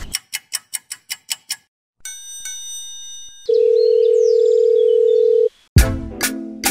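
Clock-ticking sound effect, about five ticks a second, which stops about a second and a half in. Then a short telephone-style ringing chime and a loud, steady dial-tone beep lasting about two seconds, cut off as music with a beat starts near the end.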